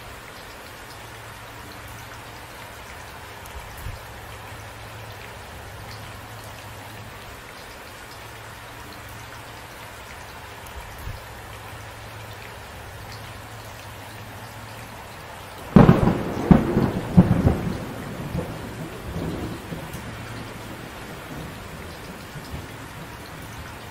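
Steady rain falling, with a sharp thunderclap breaking in about two-thirds of the way through and rumbling away over several seconds.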